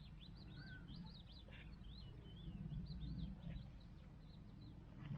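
Faint birdsong: a small bird singing a quick, continuous run of rising and falling high chirps, over a steady low rumble.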